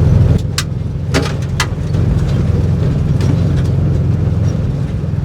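Air-cooled flat-four engine of a 1958 VW bus running steadily while it crawls over rocks. The body and suspension give a few sharp knocks and rattles, and the engine eases off about half a second in.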